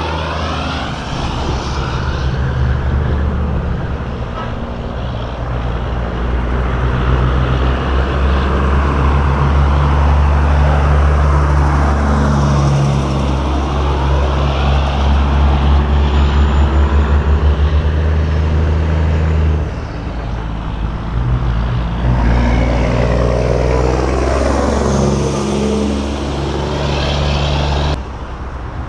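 Diesel semi trucks driving past one after another, their engines giving a steady low drone that swells and fades as each one passes.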